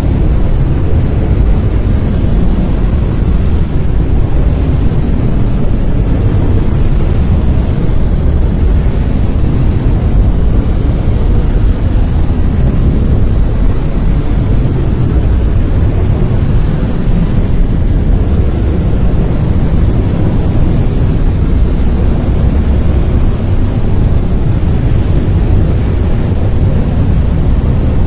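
Brown noise: a loud, steady, even rushing hiss, heaviest in the bass and thinning toward the highs, without change or break.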